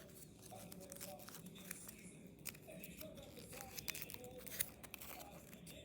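Sheet of paper being folded and creased by hand into an origami jet: soft rustling and crinkling with many small crisp clicks as the folds are pressed.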